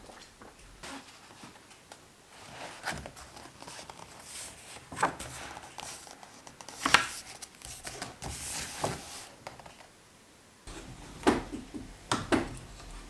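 Small handling sounds: scattered light knocks, clicks and rustles, loudest about seven seconds in and again near the end.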